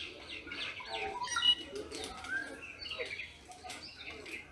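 Several wild birds calling at once, with rufous treepie calls among them: many short chirps and whistled glides overlapping, the loudest note about a second and a half in.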